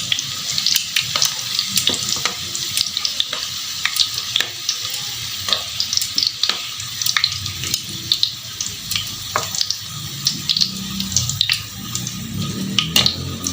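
Food sizzling in oil in a hot pan: a steady hiss broken by many sharp crackles and pops, with a low rumble coming in near the end.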